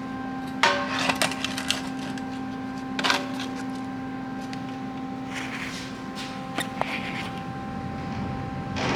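Sharp knocks and clatter of hard parts being handled: a cluster about a second in, another near three seconds, and two sharp clicks near seven seconds. A steady hum runs underneath.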